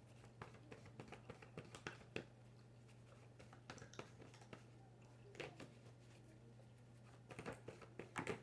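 Near silence with faint, scattered clicks and taps of tarot cards being handled and laid down, a small cluster of them near the end, over a low steady hum.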